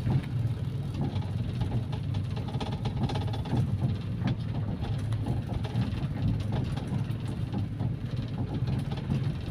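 Car with a carburetted engine cruising steadily at about 65–70 km/h: a steady low engine drone with road noise. The K3 carburettor's primary jet has been reduced from 130 to 105.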